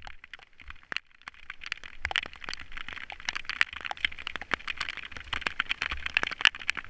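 Rain falling, with many irregular ticks of drops hitting close by over a steady hiss, growing denser and louder.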